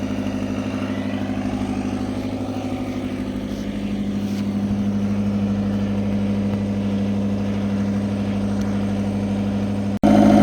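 Fiat Hitachi FH150 excavator's diesel engine running steadily at idle. It gets a little louder about four seconds in, and near the end it suddenly jumps louder.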